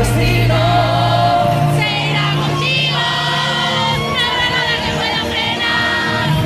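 Live band playing a pop song, with a sung vocal line over a sustained bass.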